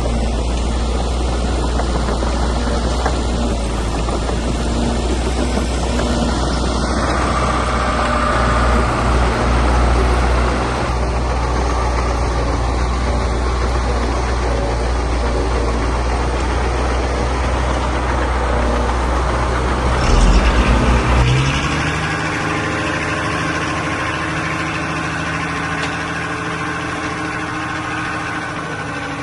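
Diesel engines of heavy earthmoving machinery running steadily. About twenty seconds in there is a brief louder surge, and then the engine note changes to a different, steadier hum.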